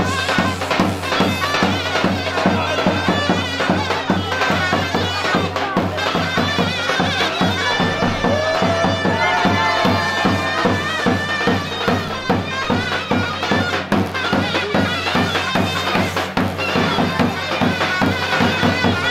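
Loud traditional folk dance music: a reed wind instrument plays a sustained melody over a steady drumbeat.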